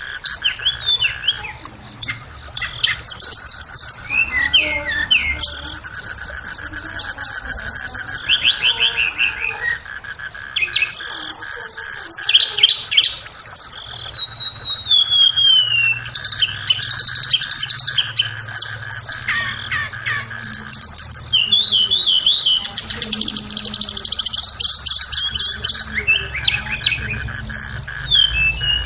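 Tledekan (blue flycatcher) song, a fast varied run of trills, rapid note series and descending slurs with a brief pause about a third of the way in. It is played as a masteran track to tutor or lure the birds. A steady faint tone and a low hum sit under it.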